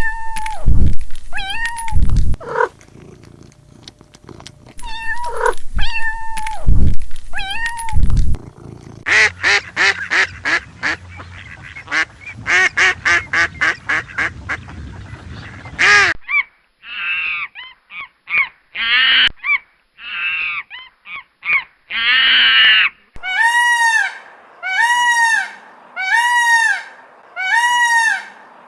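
A string of different animal calls edited one after another. It opens with drawn-out pitched calls, then fast runs of short repeated calls, and ends with about six evenly spaced calls that rise and fall in pitch.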